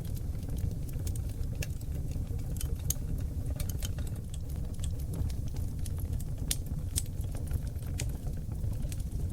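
Seasoned oak logs burning in a wood fireplace: a steady low rumble of flames with frequent, irregular sharp crackles and pops.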